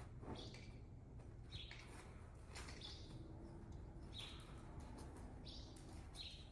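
Small birds chirping: a series of faint, short, high chirps, roughly one a second.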